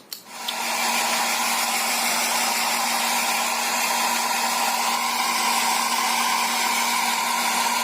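Blow dryer switched on, coming up to full speed within about half a second and then running steadily: a constant rush of air with a steady low hum, used to dry a small dog's fur.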